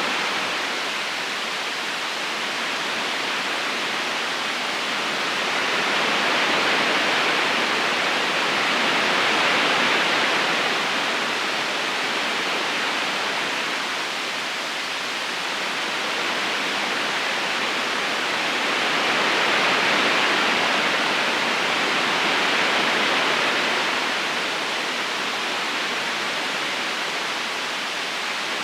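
Steady rush of river water flowing over rocks, swelling and easing slowly every ten seconds or so.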